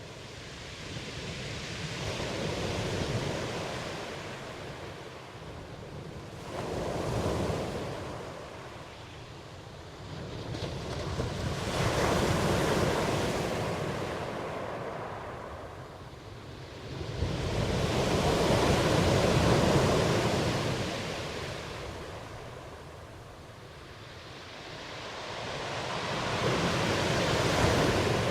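Ocean surf: waves break and wash in, swelling and fading five times, one surge every four to eight seconds.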